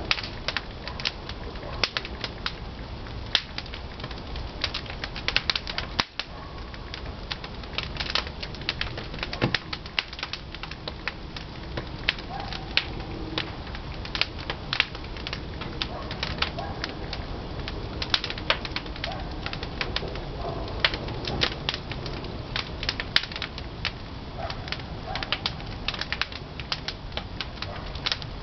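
Pine firewood burning in the firebox of a traditional wood-fired kiln: dense, irregular crackling and popping over a low rumble.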